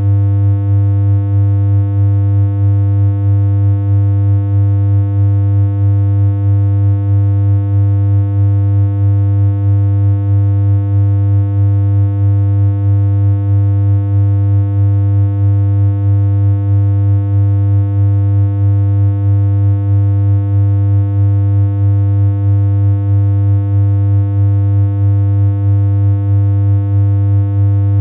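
A steady, low synthesized electronic hum made in BeepBox, holding one unchanging pitch near 100 Hz, with a slight regular pulse in loudness.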